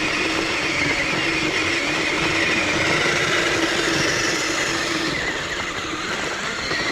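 Electric RC vehicles' motors and gearing whining steadily as they climb a snowy hill, easing slightly after about five seconds.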